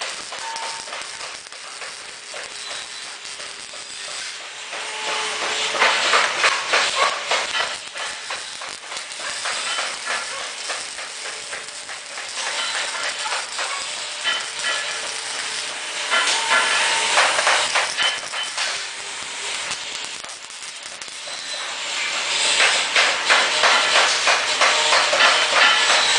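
Welding arc crackling and hissing, in three louder runs: about five seconds in, around the middle, and from about two-thirds through to the end.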